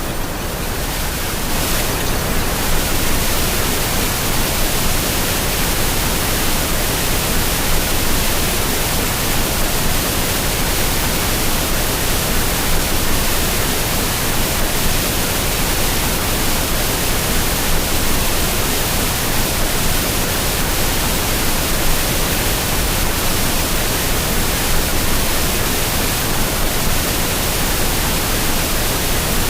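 A high waterfall's falling water rushing loudly and steadily, an even noise with no changes.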